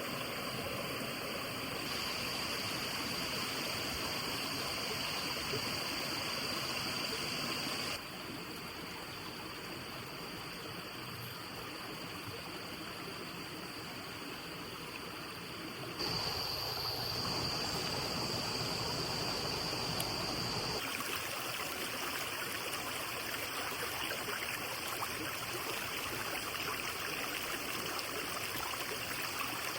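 Steady rushing of a stream flowing. It drops somewhat in level about eight seconds in and comes back louder about halfway through, with a thin steady high tone above the water in parts.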